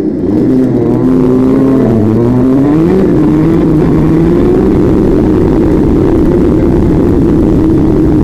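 A vehicle engine running hard, its pitch rising and falling for the first few seconds as it revs and shifts, then holding fairly steady, over a heavy low rumble.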